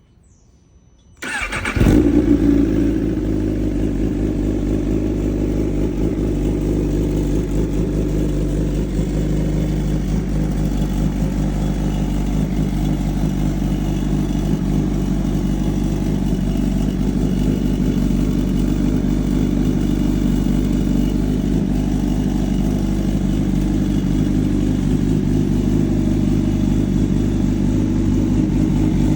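Suzuki GSX-R1000's inline-four engine cold-starting: it catches about a second and a half in with a brief rev, then settles into a steady idle.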